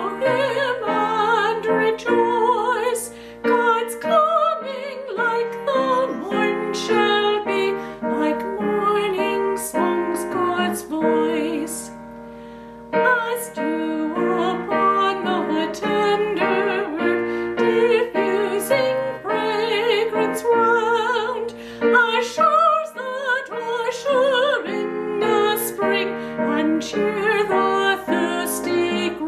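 A woman singing with vibrato over piano accompaniment, in phrases with short breaks about 12 and 22 seconds in.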